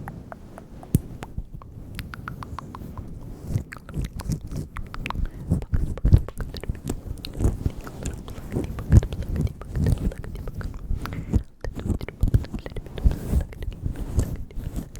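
ASMR mouth sounds: a dense, irregular run of quick clicks and smacks, busier and louder from about four seconds in, with a brief pause near the end.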